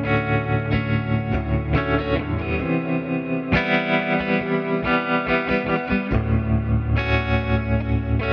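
Electric guitar played through a Fractal Audio amp modeler, letting sustained chords ring in a slightly distorted, effects-laden tone, with a new chord every second or two.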